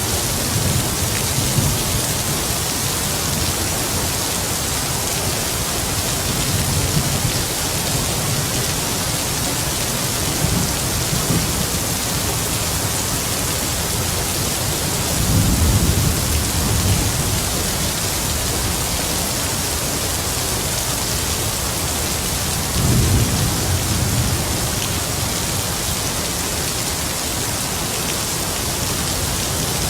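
Heavy rain falling in a steady, dense hiss, with distant thunder rumbling low several times, the two strongest rolls about halfway through and again about three quarters of the way in.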